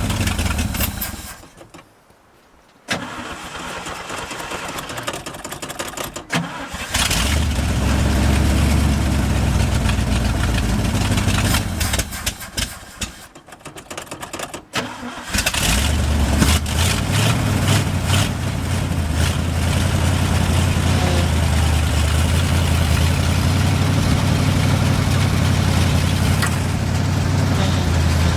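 1971 International 1890 truck engine dying out, then cranked and catching again. A second dip and restart follows about halfway through, after which it keeps running steadily. The engine is stalling and restarting after a carburetor rebuild and a new fuel line.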